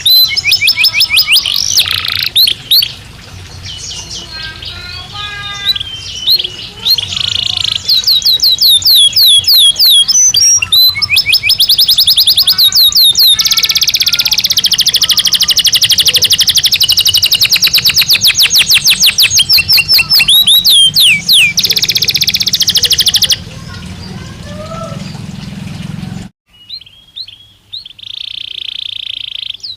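A Belgian canary singing loudly in long rapid trills of repeated gliding notes, with a sustained rolling stretch in the middle. The song breaks off abruptly a few seconds before the end, then resumes more quietly.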